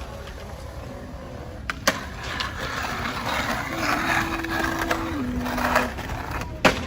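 Skateboard wheels rolling on hard ground, with a sharp clack of the board about two seconds in and another near the end.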